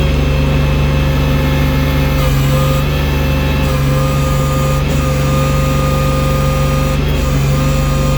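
Engine of a bucket-equipped snow-clearing machine running steadily under load, a constant drone with a steady whine over it.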